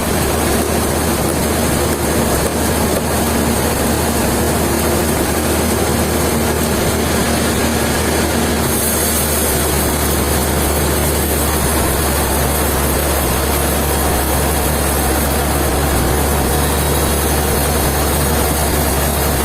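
Heavy sawmill machinery running steadily, with a loud low engine hum under a constant noisy roar; a brighter hiss joins about halfway through.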